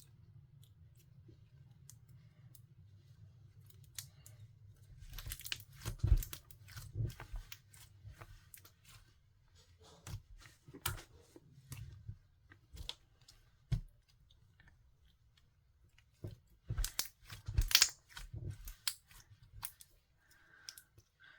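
Clear slime being squeezed and pressed by hand, giving irregular bursts of sticky pops and clicks over a low steady hum. The loudest bursts come about six and eighteen seconds in.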